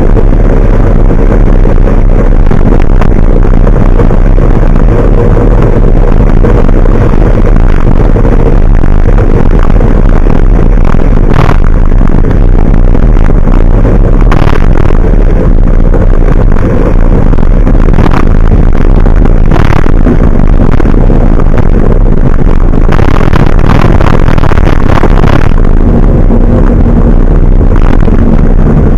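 Vehicle on the move with a large truck: steady, very loud engine rumble and road noise, heavy in the low end. A few brief knocks or rattles come through in the middle.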